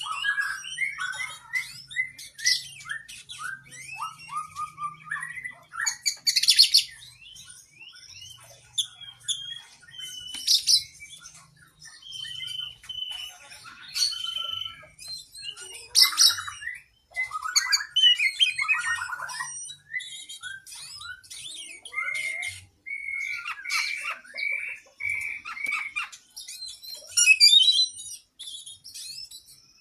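Oriental magpie-robin (kacer) singing vigorously in a long, varied run of whistles, fast trills and harsh buzzy notes, with quick pitch glides and few pauses.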